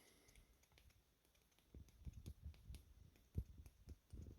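Near silence, then from about two seconds in a run of faint, short knocks and clicks of hands handling things.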